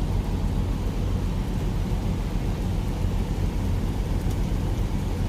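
A truck's engine idling: a steady low hum under an even hiss.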